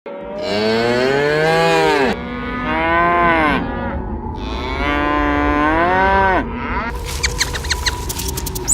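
Cow mooing: three long, drawn-out calls, one after another. Near the end, short high chirps begin.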